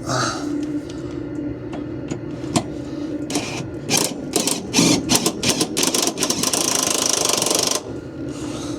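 Power drill fitted with a small attachment, triggered in a string of short bursts from about three seconds in, then run steadily for nearly two seconds before it stops. It is not strong enough for the fastener it is driving.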